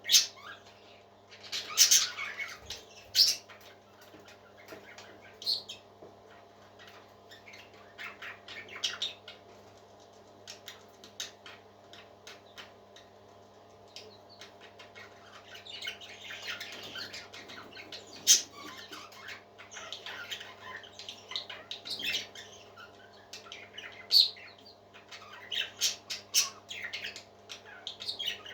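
Parrots giving short squawks and chirps at irregular intervals, over a steady low hum.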